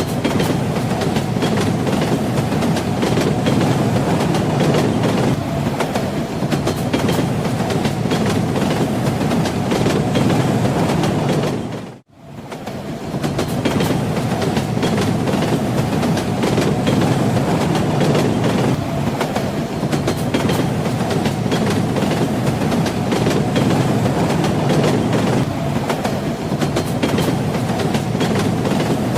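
Train wheels clattering over the rails, a steady rumble of a moving railway carriage with clicks from the wheels. The sound dips out briefly about twelve seconds in and fades back up.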